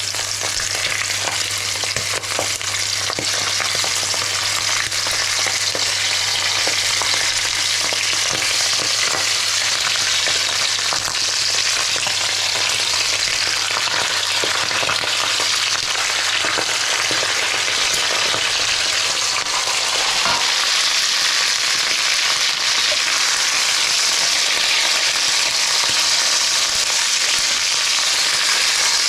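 Chicken pieces frying in hot rendered smoked pork fat: a steady, loud sizzle with scattered crackles and pops.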